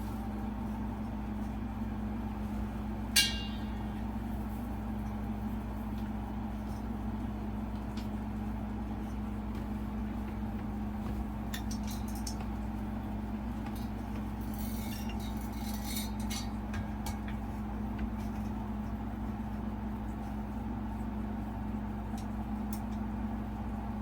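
Metal ceiling-fan parts being handled during assembly: one sharp clink about three seconds in, then scattered lighter clicks and rattles around the middle, over a steady hum.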